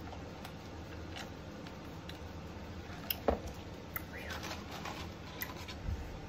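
Close-up mouth sounds of eating: chewing with a few sharp wet clicks and lip smacks in the second half, over a steady low background hiss.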